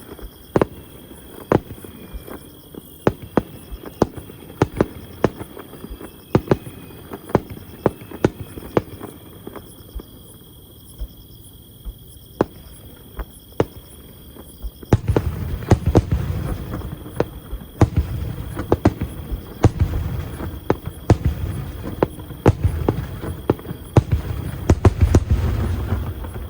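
Fireworks bursting overhead: a steady string of sharp bangs, one every half second to a second. About halfway through it turns into a dense barrage of overlapping bangs over a continuous deep rumble.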